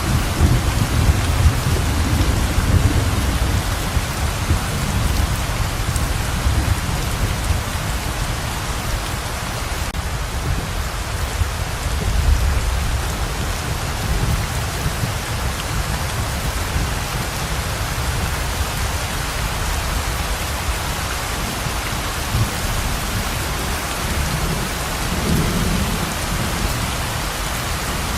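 Heavy rain pouring steadily, with distant thunder rumbling low underneath, swelling in the first few seconds, again about midway and near the end.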